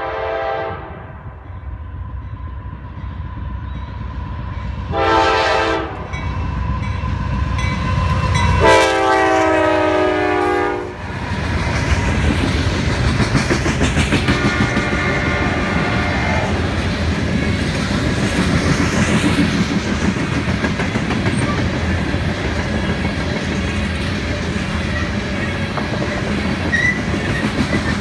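CSX freight locomotive's air horn blowing for a grade crossing: a blast that ends about a second in, a short blast, then a long blast. The loaded coal train then rumbles past, its hopper car wheels clicking rhythmically over the rail joints, with a fainter horn blast partway through.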